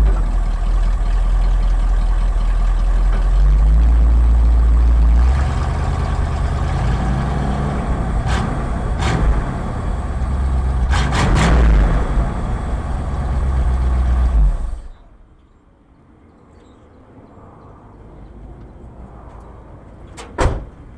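Ford F100's 302 V8 running, with a few sharp clicks in the middle, then the engine sound cuts off suddenly about fifteen seconds in, leaving only faint background and one sharp click near the end.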